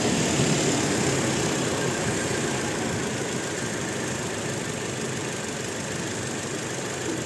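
Toyota Innova's four-cylinder petrol engine idling steadily, a little louder over the first couple of seconds before it settles. The engine has a misfire that is being traced to a faulty ignition coil.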